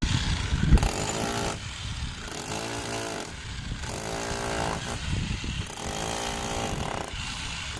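A motorised power tool at a construction site, running in on-and-off stretches of about a second each with a buzzing pitch in each stretch.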